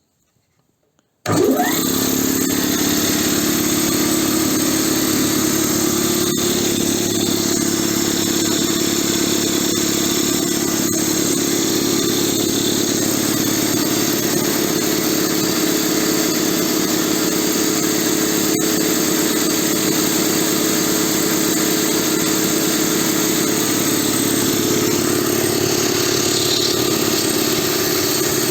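SO-7B piston air compressor, driven by a three-phase electric motor, starting abruptly about a second in and then running steadily with an even mechanical clatter and hum. It is running freshly rebuilt, with a new piston group.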